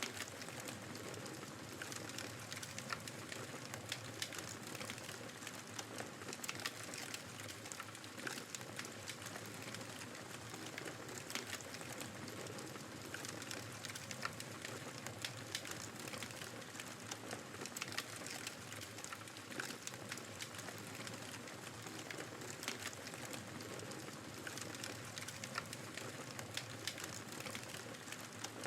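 Wood fire crackling in a fireplace, with frequent small sharp pops, over the steady hiss of a snowstorm's wind.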